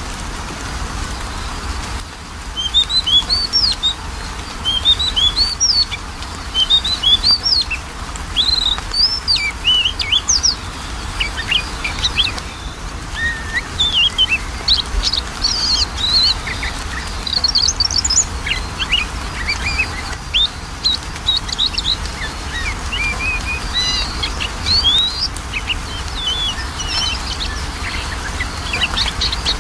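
Oriental magpie-robin (kacer) song: a rapid, varied run of high whistled and chirping notes, many of them sliding up or down, from about two seconds in, over a steady low hum. It is a lure recording meant to set a reluctant kacer singing.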